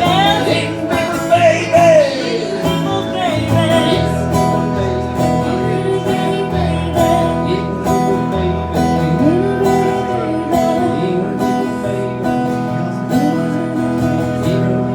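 Live acoustic guitar strumming out the end of a song, with a sung line trailing off in the first few seconds, then the guitar alone.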